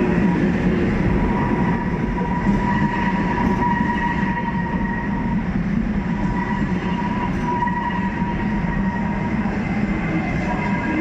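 A pair of ETR521 electric multiple-unit trains running: a steady rumble of wheels on rail, with a constant high whine over it.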